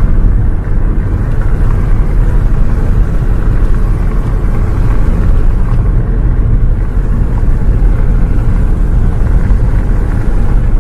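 Steady low rumble of a bus travelling, heard from inside the cabin, with rain noise mixed in.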